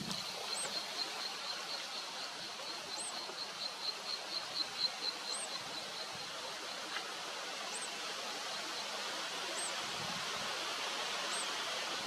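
Outdoor nature ambience: a steady hiss with a fast series of high pulsed notes, about five a second, that fades out about two-thirds of the way through, and a short, very high chirp repeated about every two seconds.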